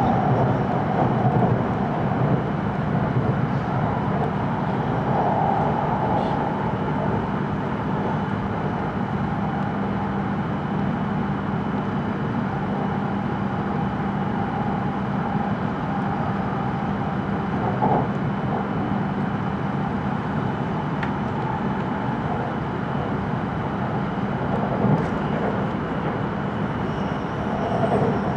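Cabin noise of an E5 series Shinkansen train running: a steady rumble of wheels and running gear, heard inside the carriage, with a faint steady hum over it and a couple of light brief knocks.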